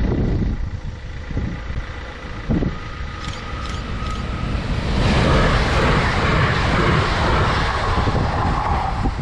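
A Pesa Elf EN76 electric multiple unit passing the level crossing at speed. A loud rush of wheel and air noise swells about five seconds in and lasts about four seconds as the train goes by.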